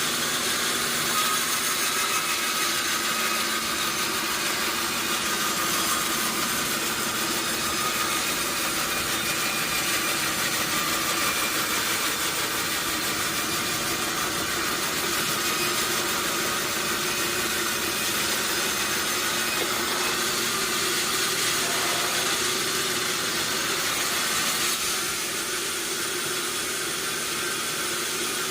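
Sawmill machinery running steadily: a constant hissing noise over a low hum. It eases off slightly about 25 seconds in.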